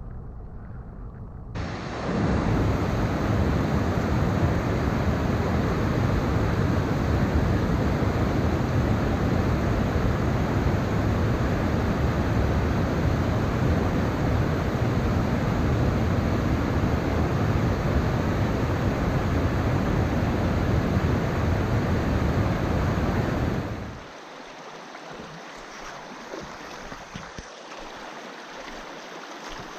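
Mountain stream water rushing, a loud steady noise that comes in suddenly about a second and a half in and drops away abruptly near the end, leaving a quieter wash of water.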